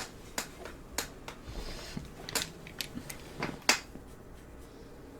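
A series of sharp clicks and light knocks at uneven intervals, the sound of something small being handled and set in place.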